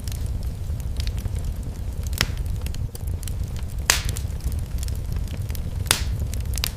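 Fire in a fireplace crackling over a steady low rumble, with scattered small crackles and three louder sharp pops about two, four and six seconds in.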